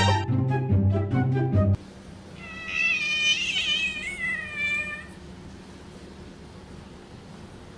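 Background music cuts off suddenly, then a domestic cat gives one long meow of about two and a half seconds that wavers in pitch.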